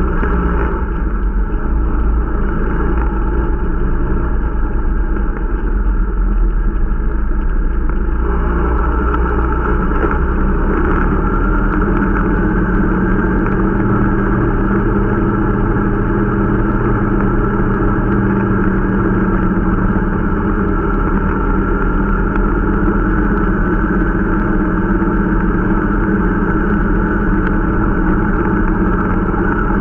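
Irbis Dingo T125 snowmobile's 125 cc four-stroke engine running steadily during its break-in ride; the engine note rises about eight seconds in and holds there.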